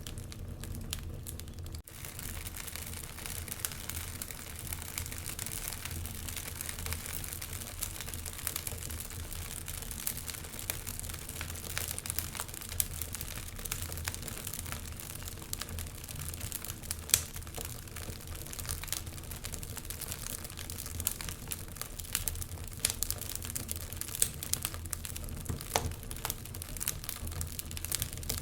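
Wood fire in a fireplace crackling, with many small irregular snaps over a low steady rumble and one louder pop about seventeen seconds in.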